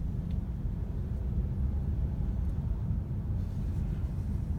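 Low, steady engine and road rumble inside a Mercedes GLC's cabin as it drives.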